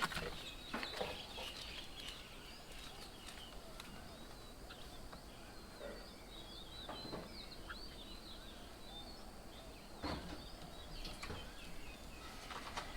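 Small birds chirping and twittering faintly and steadily, with a few short knocks or clatters, one at the start and a couple about two-thirds of the way through.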